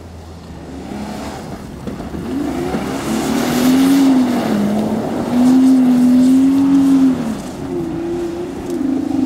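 Holden Commodore engine revving hard as the rear-wheel-drive car power-slides on dirt, its pitch rising and falling with the throttle and held high for a second or two near the middle.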